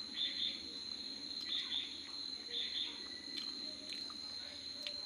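Insects trilling in a steady high drone, with short chirps in pairs about every second and a quarter and a few faint clicks.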